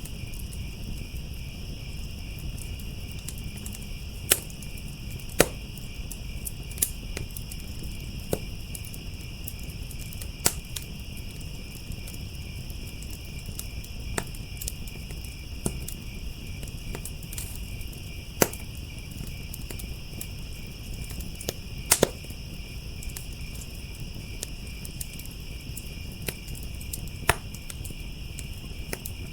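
Wood fire crackling and popping with sharp, irregular snaps every second or two, over steady chirring of crickets and a low rumble from the burning fire.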